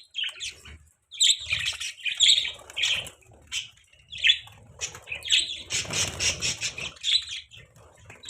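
Budgerigars (budgies) chirping in quick, uneven runs of short high calls, densest about six seconds in.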